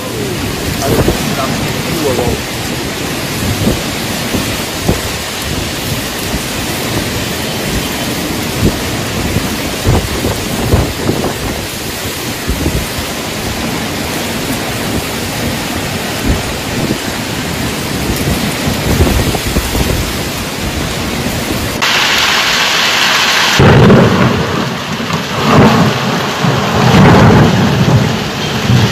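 Heavy rain pouring down in a thunderstorm, with thunder rumbling. About 22 seconds in the sound changes abruptly, and louder, deeper rumbles of thunder swell toward the end.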